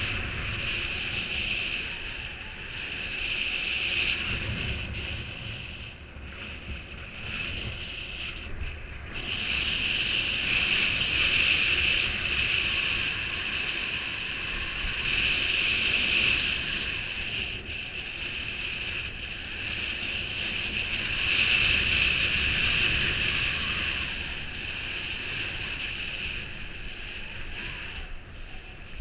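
Airflow rushing over the microphone in flight under a paraglider mini wing in strong wind: a continuous hiss that swells and eases every few seconds.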